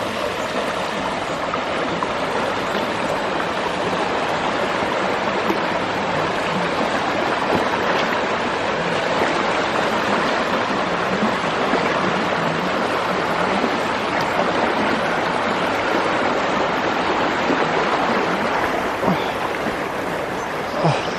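Shallow running stream, water rushing steadily.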